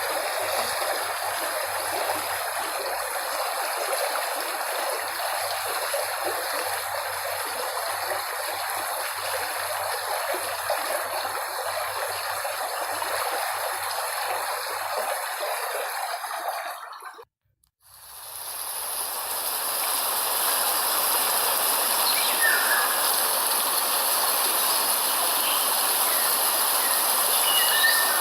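Recording of a flowing stream, a steady rush of running water, that fades out to brief silence about two-thirds of the way through. A different, brighter steady hiss then fades in, with a few faint chirps near the end.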